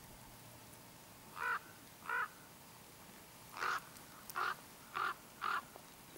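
A bird calling six times with short, harsh calls: two about a second and a half in, then four in quicker succession in the second half.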